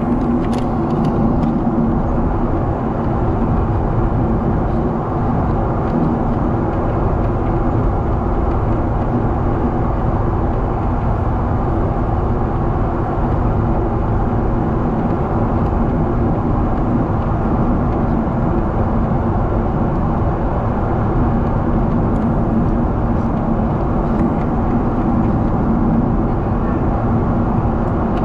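Steady engine and airflow noise heard inside the cabin of a Boeing 777 in flight, a constant rush with a low steady hum.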